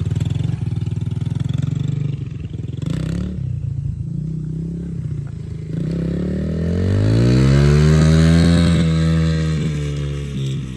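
Yamaha TTR-110 dirt bike's small four-stroke single-cylinder engine running. About six seconds in its revs climb to a peak and then fall away, the bike still in first gear and not shifted up. A short clatter comes about three seconds in.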